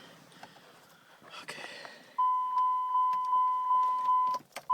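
The 2005 Dodge Ram 2500's dashboard warning chime dinging steadily at about three dings a second, starting a little past halfway, with a click near the end that briefly cuts it off before it resumes.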